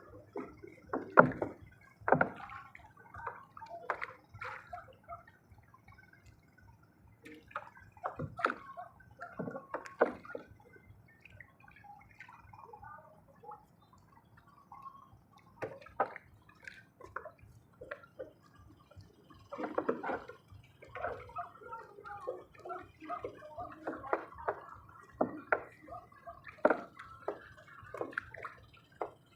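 Water splashing and dripping, with irregular clicks and knocks.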